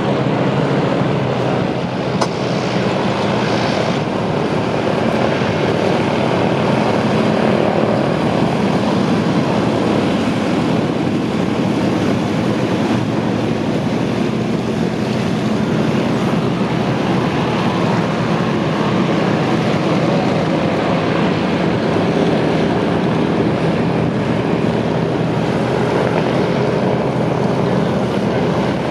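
Douglas DC-3/C-47 Dakota twin radial engines and propellers running steadily. The sound is loud and even, a dense drone with no clear change.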